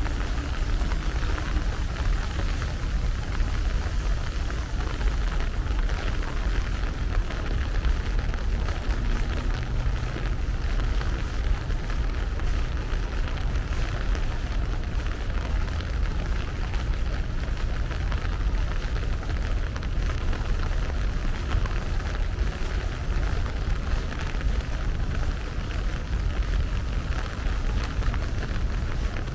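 Steady rain falling, a constant patter of drops, over a low steady rumble.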